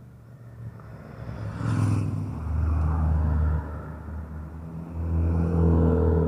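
Motorcycles riding past one after another, each engine note building as it approaches. The first is loudest from about two seconds in, and a second louder one comes through about five seconds in.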